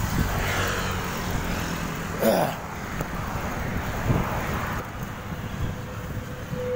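Road traffic noise: motor vehicles running past, with one vehicle swelling up briefly about two seconds in.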